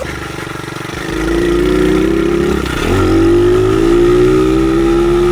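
Dirt bike engine running under throttle, getting louder about a second in, its pitch climbing, dipping sharply near the middle and then climbing again.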